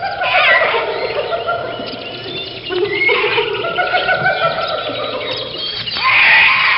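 Animal calls, many of them overlapping and squawking, with a louder burst of calls about six seconds in.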